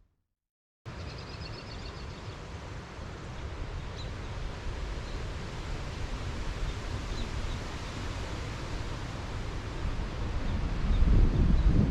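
Wind rumbling on the microphone, with a few faint bird chirps; a stronger gust near the end.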